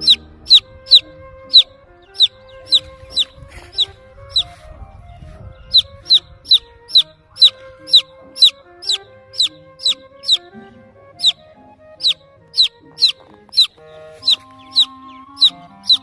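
Baby chicken chick peeping: a rapid series of sharp, high peeps that fall in pitch, about two or three a second, pausing briefly a few seconds in. Background music plays under it.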